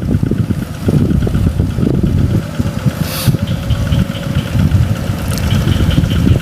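Tractor engine running steadily with a fast pulsing beat. A short hiss comes about three seconds in.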